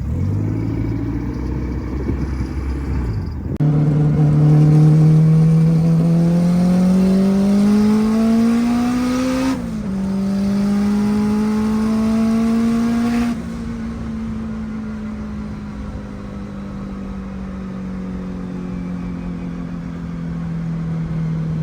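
Honda K20 four-cylinder on 20 pounds of boost pulling hard: the engine note climbs steadily through a gear, drops at a quick upshift about ten seconds in and climbs again. About thirteen seconds in the throttle lifts and the note falls slowly as the car coasts.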